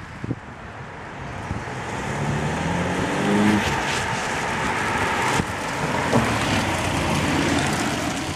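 Skoda Octavia RS 2.0 TDI diesel with an Eberspächer active sound exhaust actuator, accelerating: its engine note rises in pitch and grows louder over a couple of seconds, then runs on steadily with road noise. A few sharp clicks come near the start.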